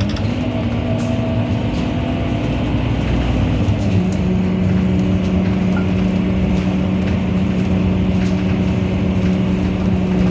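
Scania K230UB bus's five-cylinder diesel and driveline running under way, a steady drone with a humming tone. The tone steps up in pitch at the start and drops back down about four seconds in as engine speed changes.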